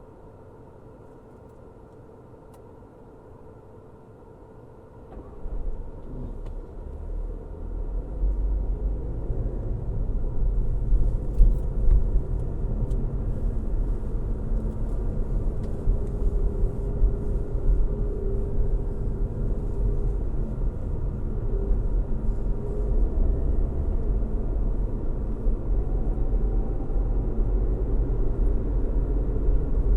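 Car driving on a road: a quiet steady hum at first. About five seconds in, a low road rumble of tyres and engine builds up over a few seconds as the car gathers speed, then holds steady.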